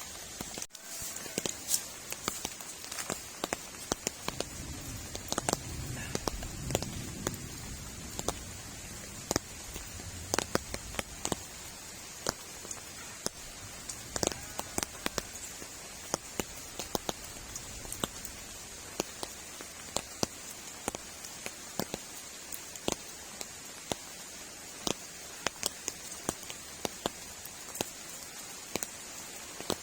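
Raindrops ticking irregularly on a shelter over a steady hiss of rain, with a low rumble from about four to nine seconds in.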